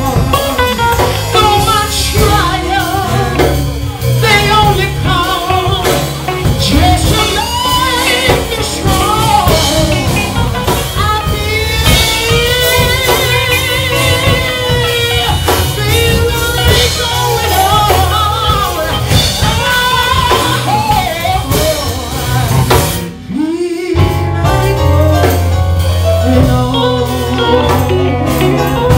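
Live gospel band music with singing over drum kit, bass and electric guitar. The music thins briefly about three-quarters of the way through, then bass and guitar carry on.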